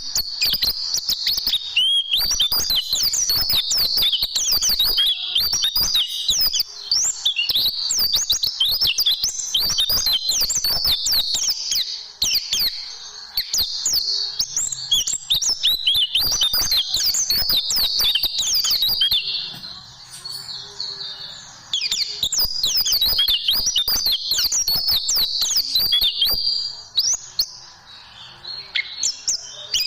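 White-eye (pleci) singing a fast, continuous twittering song of high chirps and trills, with brief lulls about 12, 20 and 28 seconds in.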